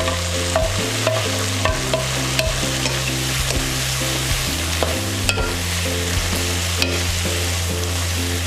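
A wooden spatula stirs a stir-fry of vegetables and anchovies in a wok over a steady frying sizzle, with occasional sharp knocks of the spatula against the pan. Soft background music with held bass notes and a repeating pattern plays under it.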